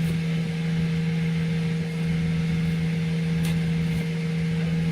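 Septic pump truck's engine and vacuum pump running steadily, a constant low drone.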